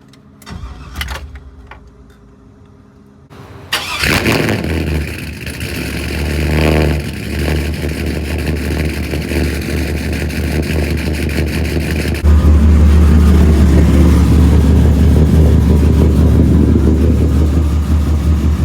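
Modified truck engine cold-starting: a few seconds of cranking, then it catches about four seconds in and runs loud at a fast cold idle, with a brief rise in revs. It gets suddenly louder about twelve seconds in.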